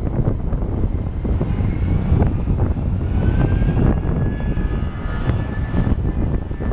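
Airbus A319's IAE V2500 turbofan engines at takeoff power: a loud, deep rumble with a fan whine that rises about three seconds in and then holds steady.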